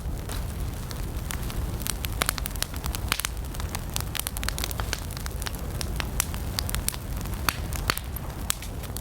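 Wood campfire burning: frequent irregular sharp crackles and pops over a steady low rumble of the flames.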